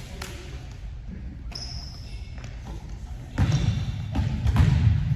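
Indoor volleyball play echoing in a large gym: sharp thuds of ball contacts and bounces, with players' voices. It gets louder about three and a half seconds in.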